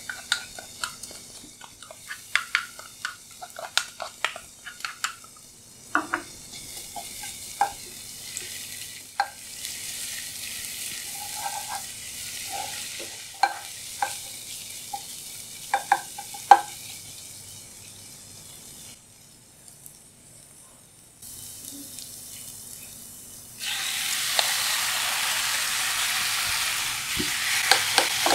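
Chopped aromatic paste frying in shallow oil in a pan, a light sizzle with a wooden spoon knocking and scraping against the pan. About three-quarters of the way through, raw pork pieces go into the hot oil and a much louder, steady sizzle takes over, with more stirring.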